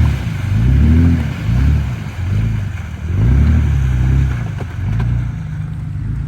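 Four-wheel-drive truck engine revving up and down in repeated surges while crawling over an off-road obstacle, then settling to a steadier lower note near the end.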